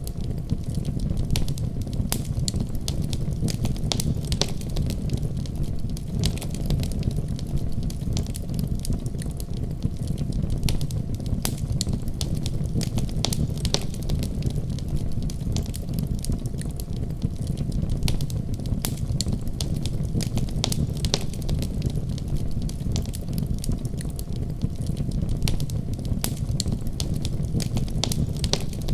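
Wood fire burning steadily, with a low rumble of flame and frequent sharp, irregular crackles and pops.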